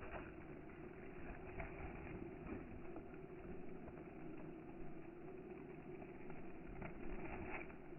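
Campfire burning: a faint steady rumble with a few scattered crackles, two of them close together near the end.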